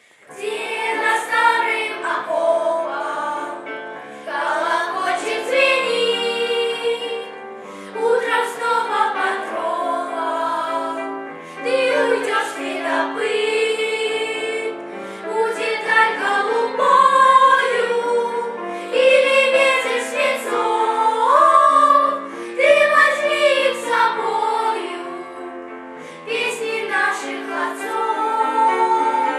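Vocal ensemble of high voices singing a song as a choir, with instrumental accompaniment, in phrases that come in just after a short break at the start.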